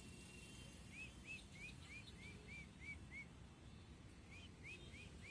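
A bird calling faintly: two runs of short, evenly spaced chirps, about three a second, over a low background rumble.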